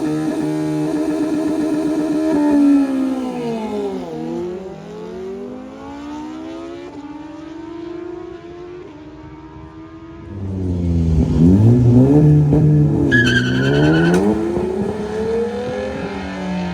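Drag cars' engines running at high revs, then accelerating hard and fading, the pitch dropping and climbing again at each gear change. About ten seconds in, another car's engine comes up loud, revving up through its gears, with a brief high squeal partway through.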